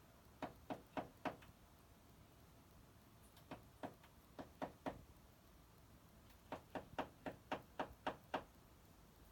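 Small bird pecking at a window pane: quick sharp taps on the glass in three bursts, about four taps, then five, then about nine, a few a second.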